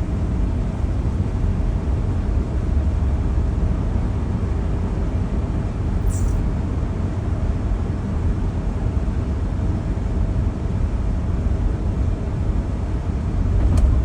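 A steady low rumble with a faint hum running under it, and a brief high chirp about six seconds in.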